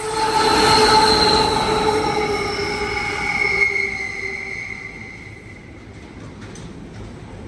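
Freight train passing with a loud metallic squeal from its wheels, several high tones at once. It is loudest about a second in and fades away after about four seconds.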